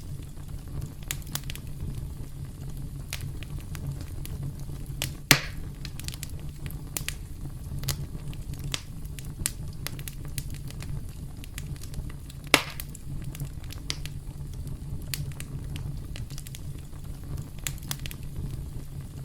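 Wood campfire crackling: a steady low rumble of flames under frequent small crackles, with two loud sharp pops, one about five seconds in and another about twelve and a half seconds in.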